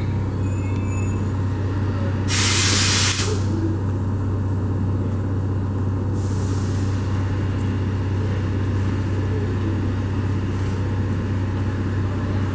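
A train standing at the platform with a steady low hum. About two seconds in there is a loud, sharp hiss of air lasting under a second, typical of air brakes venting, and a fainter hiss follows about six seconds in.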